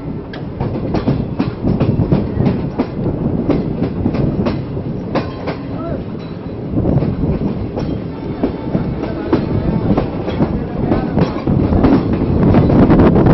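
Pakistan Railways passenger coach on the departing Awam Express, heard from its open doorway: the wheels clatter over the rail joints in irregular clicks over a steady rumble and carriage rattle. It grows louder near the end.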